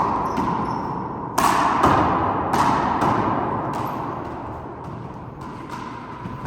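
Handball rally: a small rubber ball slapped by hand and smacking off the wall and court, a string of sharp hits with a ringing echo after each. The loudest come about one and a half to two and a half seconds in, then the hits grow fainter.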